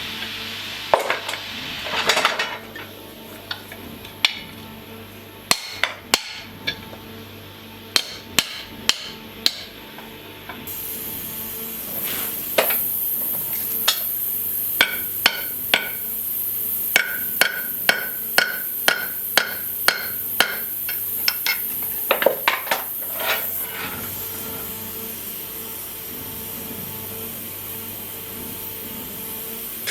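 Hammer striking steel in a long series of sharp blows, several of them ringing. The blows come in irregular groups, run at about two a second through the middle, and stop about three quarters of the way through.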